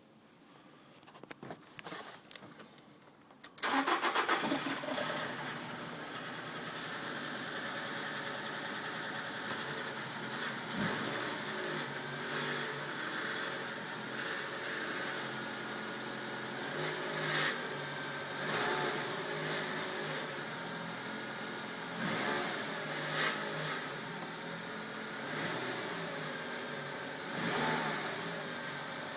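2005 Nissan X-Trail's 2.0-litre petrol engine cranked from cold, catching after about three and a half seconds with a loud burst, then running with a rattle and louder surges every few seconds. The rattle comes only with the engine cold; its cause is unknown.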